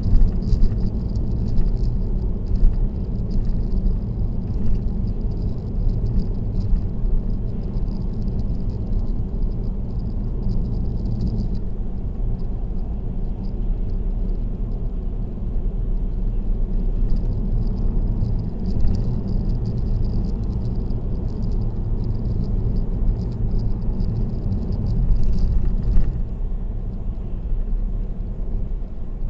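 Steady road and tyre noise of a car cruising on an expressway, heard from inside the car as a low rumble, with a few light knocks and rattles.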